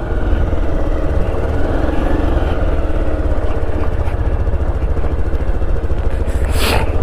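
Motorcycle engine running steadily as the bike is ridden, with a brief rush of hiss near the end.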